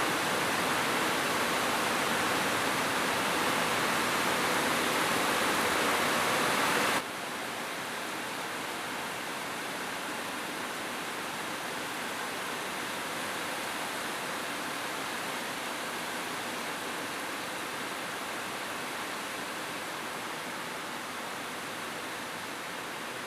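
Steady heavy rain falling on a rooftop, an even rushing patter. About seven seconds in, it drops suddenly to a quieter, steadier level and stays there.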